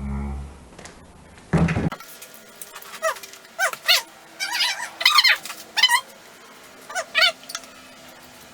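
A dull low thud, then a loud short knock about a second and a half in. After that a pet gives a run of short, high calls that rise and fall in pitch, about a dozen of them, some in quick pairs.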